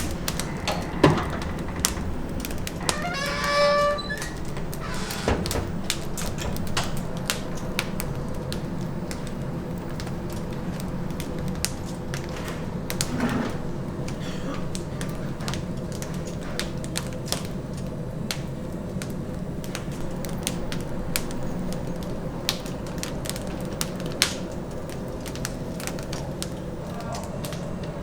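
Restaurant kitchen background: a steady low hum with frequent small sharp clicks and crackles, and a brief high voice-like call about three seconds in.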